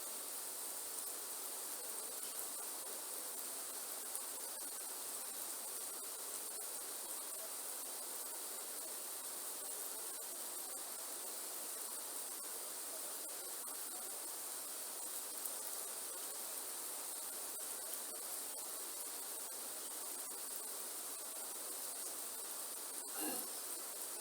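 Steady rainforest rain: an even hiss of rainfall with scattered faint drop ticks, under a constant high-pitched insect drone. One brief, louder sound stands out near the end.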